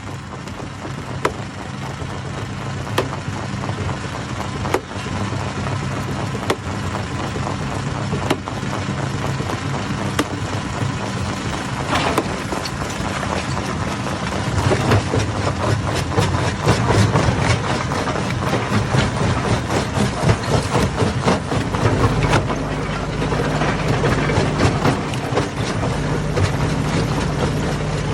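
Stone crusher running under load: a steady engine hum with many sharp knocks and cracks of rocks being broken, thickest in the second half. The engine note shifts to a different pitch about two-thirds of the way through.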